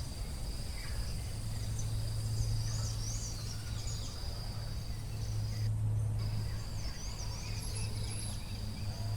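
Forest ambience: an insect's continuous high-pitched trill, which breaks off briefly a little past halfway, with short chirping bird calls over it. A steady low hum runs underneath throughout.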